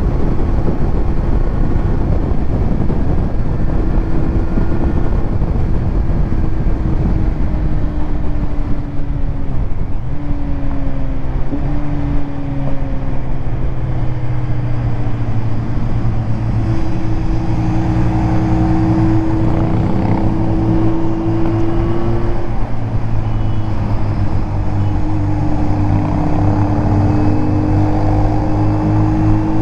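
A Kawasaki Z900's inline-four engine running through a titanium Arrow exhaust on the move. Its note holds steady for stretches and drops and rises again as the speed changes, over a heavy low rumble of wind.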